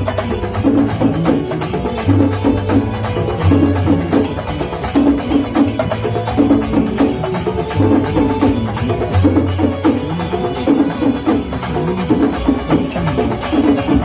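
Loud, fast percussion music with rapid, even drum strokes and a pitched melody weaving over them, typical of Kerala temple-festival melam. A low held tone comes and goes underneath.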